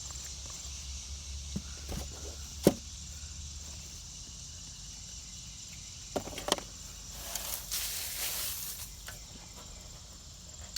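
Insects, crickets among them, chirping steadily, with a few sharp snaps or knocks, the loudest about two and a half seconds in, and a rustling swish around seven to nine seconds in.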